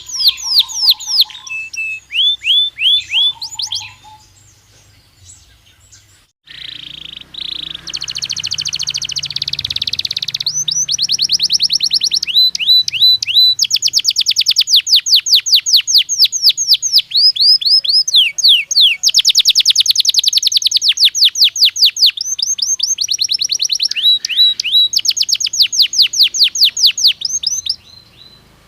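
Belgian canary singing: fast rolling trills of rapidly repeated high notes. The song breaks off for a couple of seconds early on, then runs almost without pause until it stops shortly before the end.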